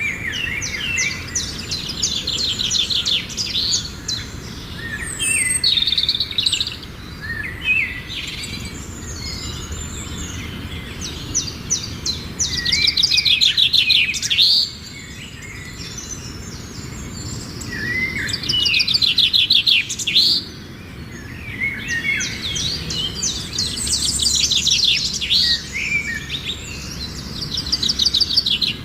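Small birds chirping and twittering in quick, high-pitched trills and chatter, bout after bout, with two louder stretches of rapid trilling near the middle. No low pigeon cooing is heard.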